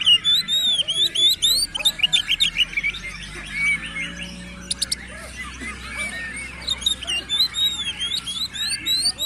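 Oriental magpie-robin (kacer) singing fast and without a break: quick runs of slurred, rising-and-falling whistles and chattering notes. The song thins out for a few seconds in the middle, then comes back dense toward the end.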